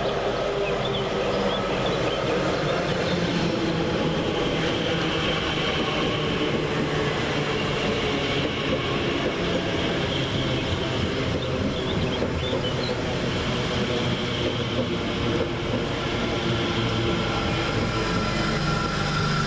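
Class 345 electric multiple unit running into the station on the slow line, with steady wheel-on-rail noise.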